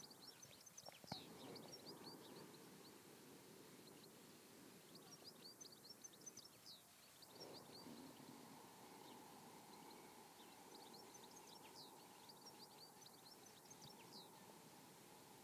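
Near silence with faint birdsong: three runs of quick high chirps, about five seconds apart, over a soft steady hiss. There is a single faint tick about a second in.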